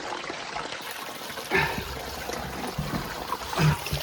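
Water trickling steadily as it runs across a wet crawlspace floor. Two short, louder bumps stand out, about a second and a half in and again near the end.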